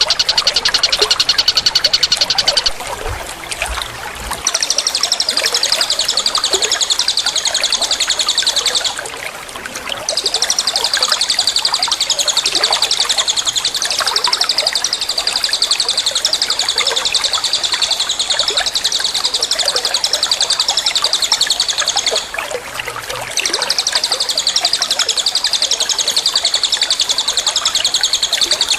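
A songbird's high, very fast trilling song, kept up in long unbroken bouts. It pauses briefly about three seconds in, nine seconds in and twenty-two seconds in.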